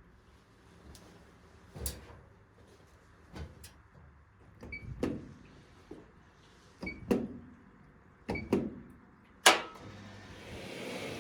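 A series of separate knocks and clinks as household items are handled, about six in all, some with a brief ring; the loudest comes near the end. A hissing noise builds up in the last second.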